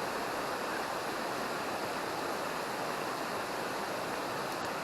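Fast-flowing river rushing steadily over rocks, a strong, powerful current.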